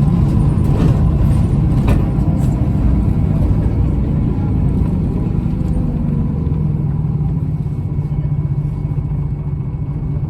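Scania L94UB single-decker bus under way, heard from on board: the diesel engine's steady low drone with a thin whine from its ZF automatic gearbox. It eases off slightly in the second half.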